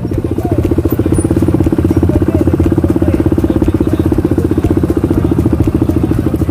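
Enduro dirt bike engine running steadily at low revs, an even rapid pulse that holds without revving up or down.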